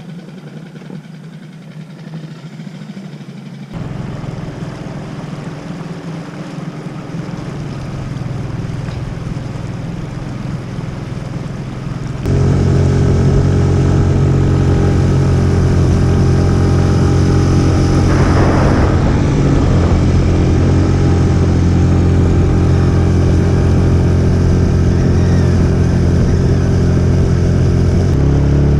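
Small outboard motor on a dinghy running steadily; about twelve seconds in it becomes much louder and holds a steady drone.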